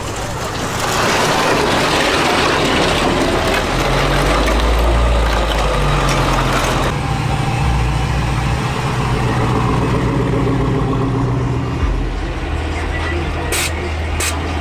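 Motor vehicle running close by, a rush of engine and road noise building over the first second and easing off about seven seconds in, over a deep steady drone that shifts pitch in steps. A few sharp clicks near the end.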